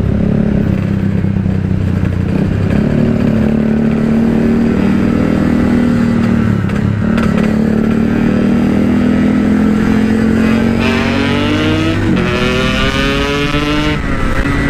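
Yamaha RX-King single-cylinder two-stroke motorcycle engine, fitted with a stock-style aftermarket exhaust, running steadily while riding, then accelerating with a rising pitch from about eleven seconds in, with a brief drop near twelve seconds as it shifts up and climbs again.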